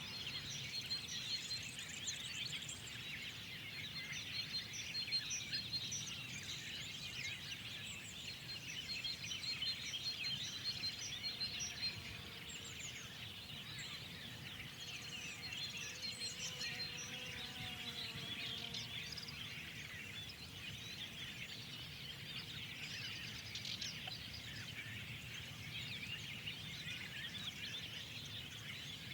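A dense dawn-chorus-like mix of many songbirds chirping and singing at once, with one bird repeating a rapid run of high pips through the first half. A low steady rumble sits beneath the birdsong.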